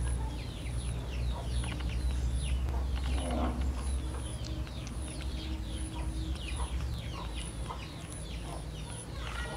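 Birds chirping in the background: many short, falling chirps in quick succession, over a steady low hum that eases off near the end.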